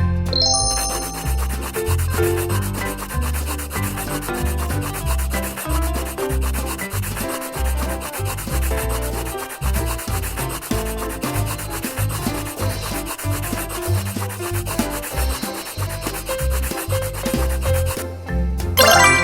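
Continuous rapid rubbing strokes of a coloring tool on paper, over background music with a stepping low melody.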